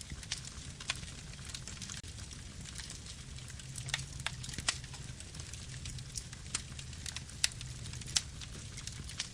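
Campfire burning: irregular sharp crackles and pops of the wood over a steady low rumble, with a few louder snaps midway and near the end.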